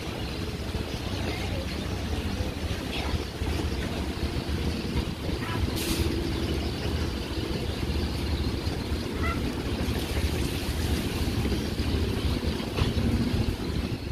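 Passenger speedboat's engines running steadily, with a low rumble under a constant rush of noise.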